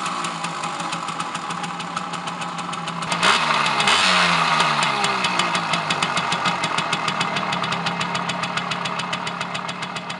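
Stock Simson S51's 50 cc two-stroke single-cylinder engine idling. About three seconds in it is blipped once, the revs rising and dropping back to a steady idle with evenly spaced firing pulses.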